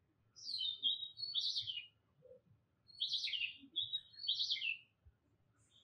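A bird singing: two similar phrases of quick high chirps and trills, each about one and a half seconds long, with a short pause between them.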